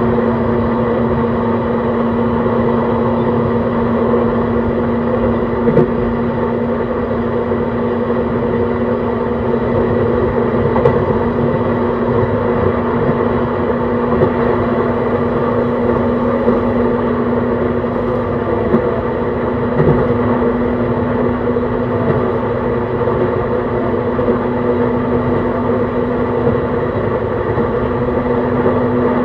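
JR East E131 series 600 electric train running at a steady speed: the Hitachi hybrid SiC inverter and traction motors give off several steady tones over the rumble of wheels on rail, with a few single knocks from rail joints.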